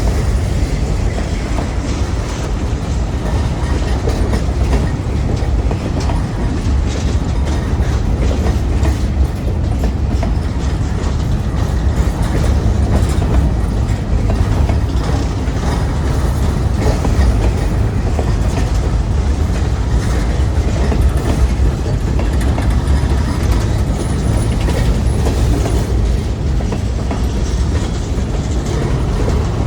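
Freight train cars rolling past at close range: a steady heavy rumble with wheels clattering over the rail joints.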